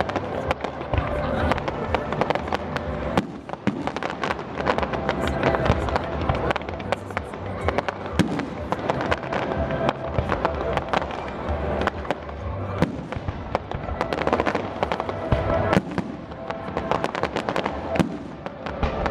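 Aerial fireworks display: a rapid, continuous run of bangs and crackling reports, with music playing underneath.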